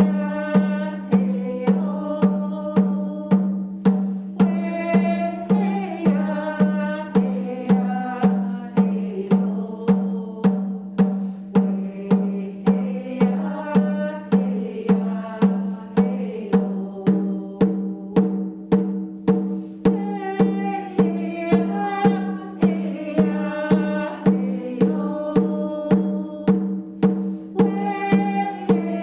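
A woman singing an Anishinaabe traveling song, a song for someone who has passed on, over a steady drum beat of about two strokes a second.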